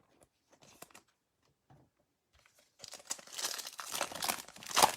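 Foil trading-card pack wrapper being torn open and crinkled, starting about three seconds in after a near-silent stretch with a few faint clicks.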